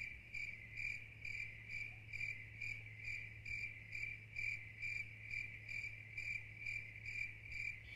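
Animal chirping call: short high chirps at one steady pitch, evenly spaced at about two a second, with a faint steady low hum beneath.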